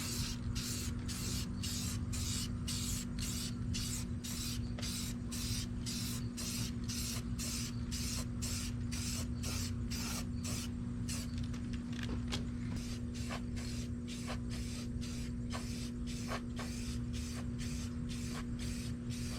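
Spray paint hissing in short, quick bursts, about two a second, laying a first coat of camo over a stencil, over a steady low hum.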